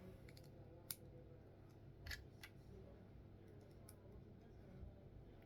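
A few faint, sharp clicks of plastic Lego pieces being handled and pressed together, scattered over a quiet room.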